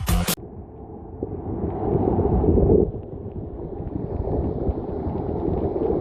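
Wind buffeting the microphone: a gusty low rumble that swells, drops off sharply about three seconds in, then builds again. Electronic music cuts off just after the start.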